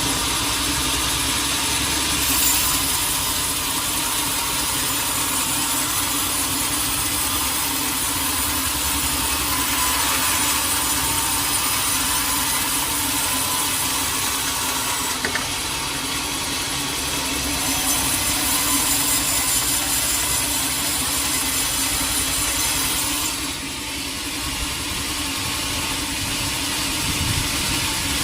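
Sawmill saw cutting through a teak log over a steady machine hum. The high hiss of the cut is stronger in two long stretches and eases briefly in between.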